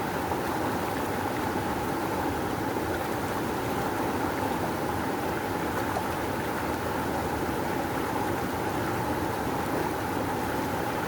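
Rushing river water flowing hard, a steady dense roar with no breaks or single splashes.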